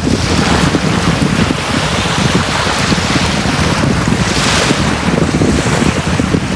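Sea waves breaking and washing up a beach, with a surge of surf swelling about four seconds in. Wind buffets the microphone underneath, giving a steady low rumble.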